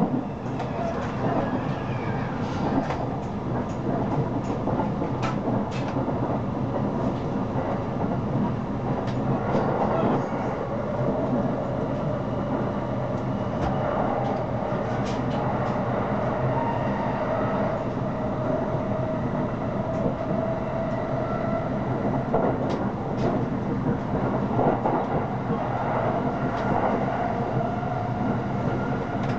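Electric commuter train running at speed, heard from inside the carriage: a steady rumble of wheels on the rails with scattered clicks. A faint whine rises slowly in pitch through the middle.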